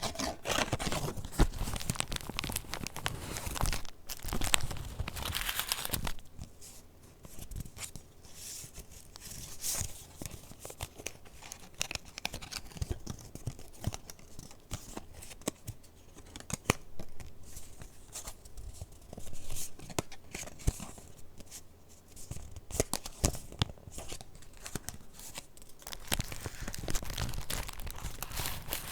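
Paper pages and layered scraps of a handmade junk journal being handled and flipped, with irregular rustling, crinkling and soft clicks, louder during the first few seconds and again near the end.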